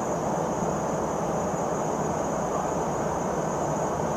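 Steady cabin noise of a P-8A Poseidon maritime patrol jet in flight: an even engine and airflow rush with a thin, steady high whine over it.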